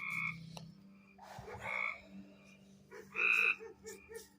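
Treefrogs calling: three short loud calls about a second and a half apart, with a quieter rapid pulsing call between the last two.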